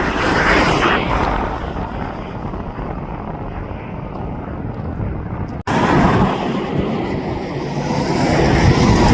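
Aircraft engine noise from a passing plane, mixed with wind buffeting the microphone. It drops out abruptly for an instant about five and a half seconds in, then comes back and swells near the end.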